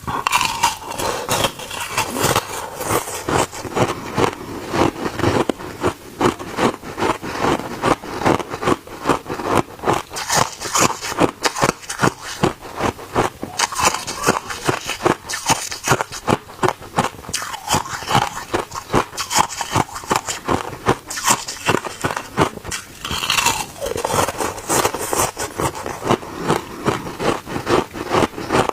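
A person biting and chewing hard ice close to the microphone: a continuous run of crisp crunches, several a second.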